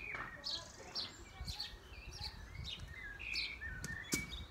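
Garden birds chirping and singing in short repeated phrases, with a single sharp click about four seconds in.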